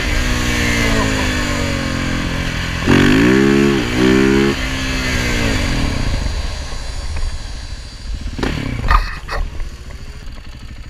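KTM 690 SMC R single-cylinder engine under way, its revs falling, then climbing sharply about three seconds in and again a second later as the throttle is opened hard. It then winds down while the bike coasts, with a couple of knocks near the end.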